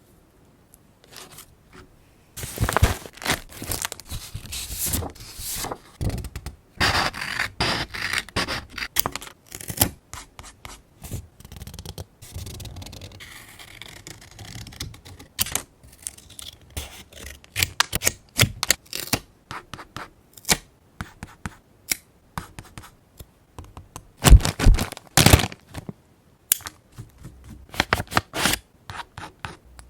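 Paper crafting by hand: paper and stickers being handled, with crinkling, rustling and small taps in irregular bursts that start about two seconds in. Two louder crackles come about three-quarters of the way through.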